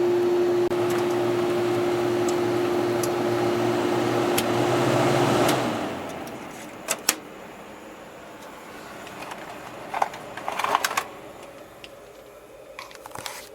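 Window air conditioner running with a steady hum from its compressor and fan, switched off about five and a half seconds in and winding down quickly. Afterwards a faint hiss of refrigerant equalizing in the unit, with a few clicks and knocks.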